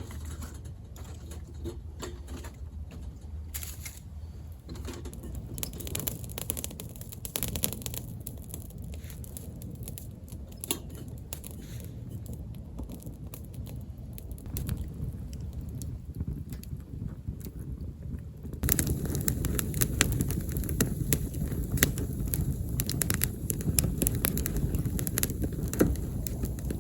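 Wood campfire crackling with scattered sharp pops, growing louder and busier about two-thirds of the way through.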